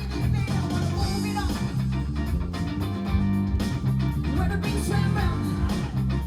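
A live rock band playing, with a lead guitar bending notes over steady bass and drums.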